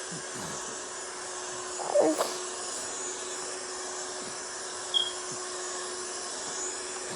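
Steady vacuum cleaner noise played as white noise for a baby, an even whoosh with a constant hum. About two seconds in a short louder sound rises over it, and near five seconds there is a brief high chirp.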